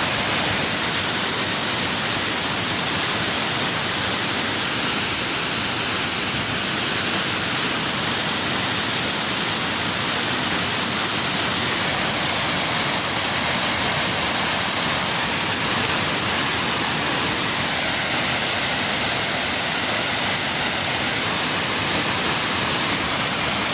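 Steady, unbroken rushing of water, loud and even throughout.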